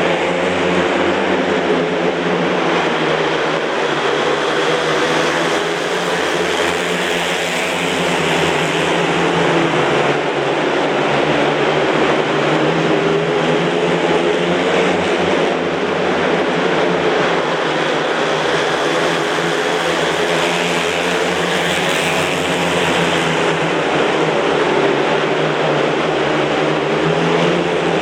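Several speedway motorcycles racing together, their single-cylinder 500 cc methanol engines running hard and overlapping, with pitch rising and falling as the riders go around the track.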